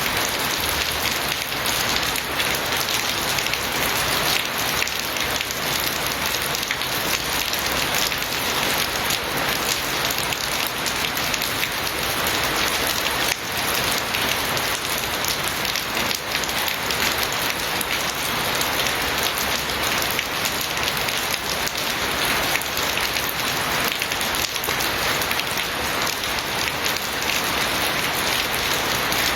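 Steady heavy rain falling and pattering on surfaces, a dense even hiss full of fine drop impacts.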